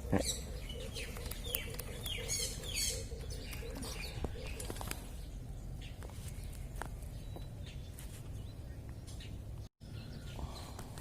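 Birds calling outdoors, with quick falling chirps over the first few seconds and a steady series of low, evenly repeated notes that stop about five seconds in. Faint scattered clicks run underneath, and the sound cuts out for an instant near the end.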